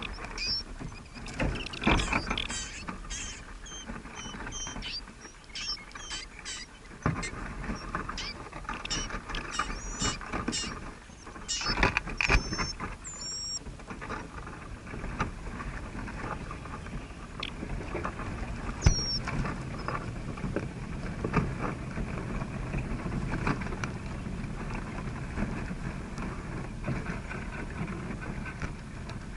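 Small birds giving many short, high chirps in the first half and one more about two-thirds through, over steady scratching and rustling with scattered clicks.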